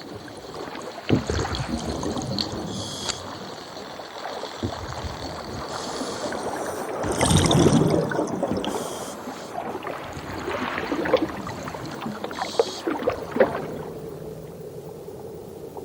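Underwater water noise with bubbling and gurgling. There are several short hissy bursts, and a louder bubbling swell about halfway through.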